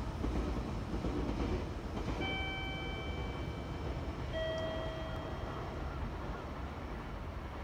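Freight train hauled by an EF66 electric locomotive approaching at a distance: a steady low rumble. A horn sounds two short tones, about two seconds in and again about four seconds in, the second a little lower.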